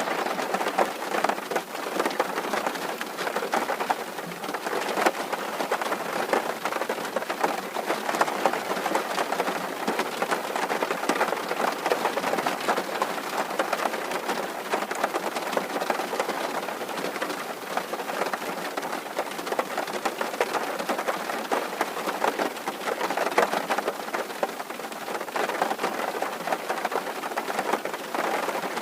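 Rain falling steadily on a tin roof: a dense patter of drops striking the metal.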